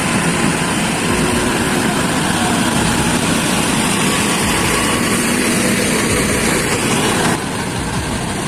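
Heavy truck engine running steadily under a loud, noisy wash, the level dropping a little about seven seconds in.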